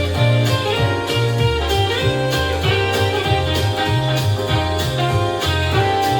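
Pop music with a steady drum beat, a bass line and guitar, played loud through a portable Bluetooth party speaker.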